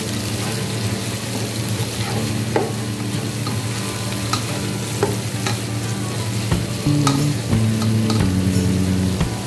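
Chicken pieces and fried onions sizzling in oil in a non-stick wok, stirred with a spatula that scrapes and clicks against the pan now and then. The chicken is being browned to a light golden colour in the onions.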